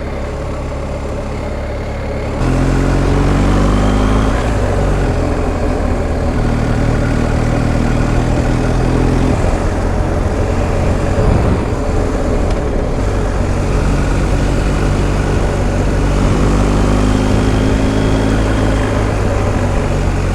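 BMW R1250 GS Adventure's boxer-twin engine under way on a climb. It gets louder about two seconds in, and its note rises and falls several times as the rider opens and eases the throttle.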